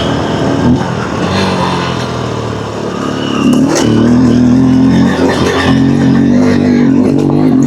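Single-cylinder dirt bike engine pulling hard up a steep climb. It wavers for the first few seconds, then the throttle opens about three seconds in and the engine holds a loud, steady drone.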